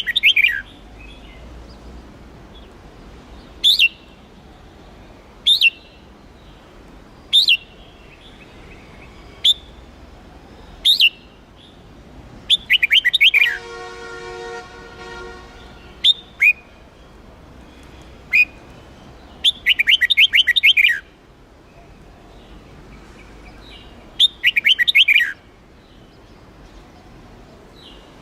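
Red-whiskered bulbul (Huế chào mào) singing: short, sharp whistled notes every couple of seconds, then three longer, rapid warbling phrases. Around the middle a separate steady horn-like tone lasts about a second and a half.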